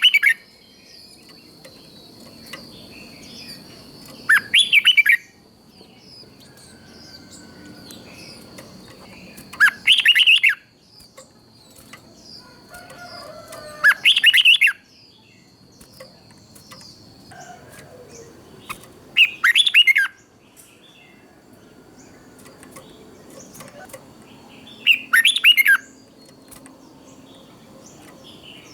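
Red-whiskered bulbul singing short, loud, chattering song phrases about a second long, one roughly every five seconds, five times, with faint small calls between them.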